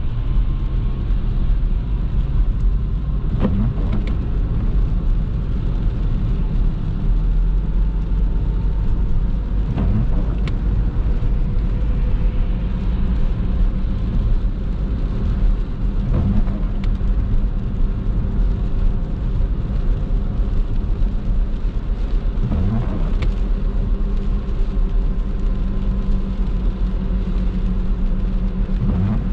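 Car driving on wet roads, heard from inside the car: a steady drone of engine and tyre noise, with a few short knocks along the way.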